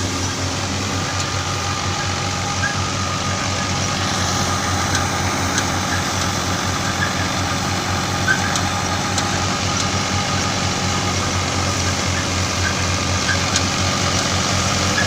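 Tractor engine and the thresher it drives running steadily, with a few faint clicks scattered through the sound.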